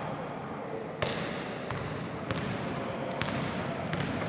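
Basketball bouncing on a gym floor: a few sharp thuds, irregularly about a second apart, the first the loudest, over the background noise of the hall.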